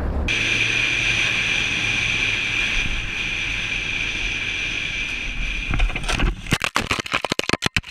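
Motorcycle riding at speed, with wind noise on the microphone and a steady high whine. From about six seconds in this breaks into a rapid run of knocks with the sound cutting in and out, as the bike crashes.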